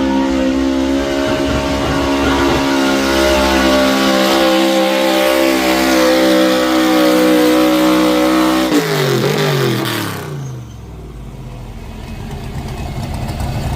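Pulling truck's engine held at high, steady revs under full load during a pull. About nine seconds in, the revs fall away quickly as the throttle is lifted, and the sound drops to a much quieter level before building again near the end.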